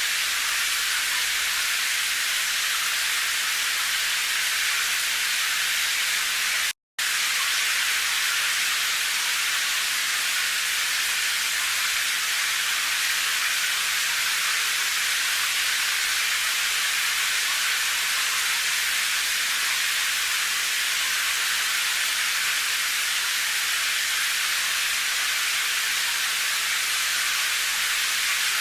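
Steady hiss of rain, even and high-pitched with hardly any low rumble, cutting out to silence for a split second about seven seconds in.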